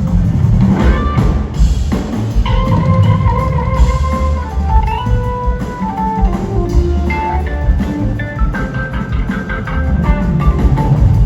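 Live band playing an instrumental passage: an electric guitar lead of held notes that step and bend in pitch, over drum kit and bass.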